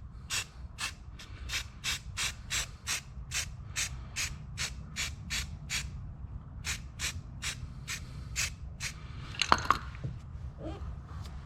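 Aerosol can of self-etching primer being shaken, its mixing ball rattling in a steady rhythm about three times a second, with a short pause about six seconds in, over a low steady rumble.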